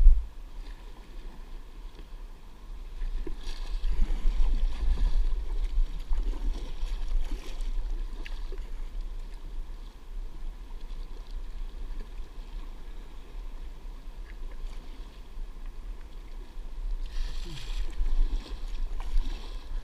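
Water splashing and flowing around a kayak, over a steady low rumble. The splashing grows louder in two stretches, about four seconds in and near the end. A sharp knock comes right at the start.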